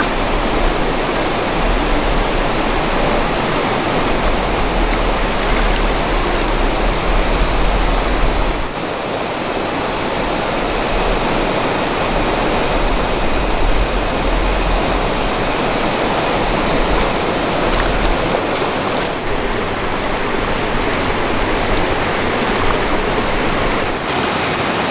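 Rushing water of a mountain stream, a loud steady rush with no break.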